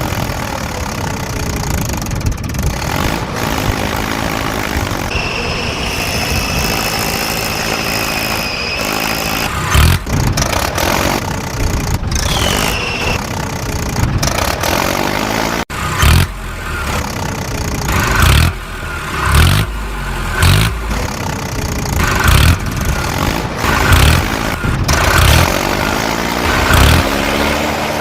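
Vehicle engines running and revving, rising and falling in pitch. A steady high tone sounds from about five to nine seconds in, and after a sudden break partway through, heavy low pulses repeat about once a second.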